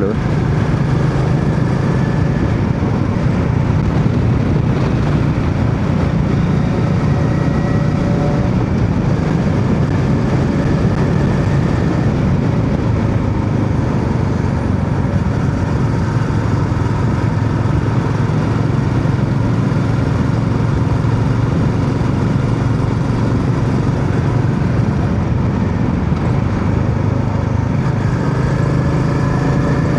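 Royal Enfield Meteor 350's single-cylinder engine running steadily while cruising, its thumping exhaust note loud and even throughout.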